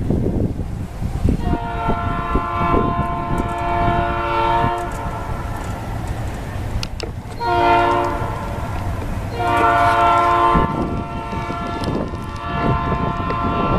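Locomotive air horn of an approaching freight train sounding a chord of several tones: a long blast, a short one, then another long one, the pattern of a grade-crossing signal. The low rumble of the approaching train runs underneath.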